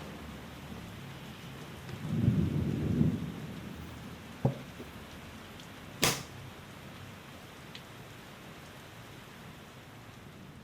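Steady rain, with a short low rumble about two seconds in and two sharp clicks a few seconds later.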